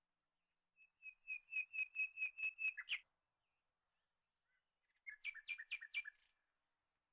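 A bird calling: a run of about nine evenly spaced, clear whistled notes lasting about two seconds, then after a pause a shorter, quicker run of notes.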